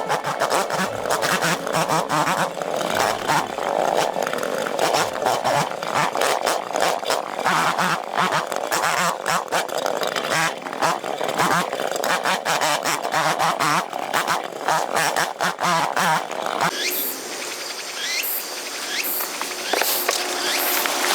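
A small petrol engine running with a dense, rattling sound. About seventeen seconds in it cuts off abruptly, giving way to quieter outdoor sound with short, high, repeated chirps.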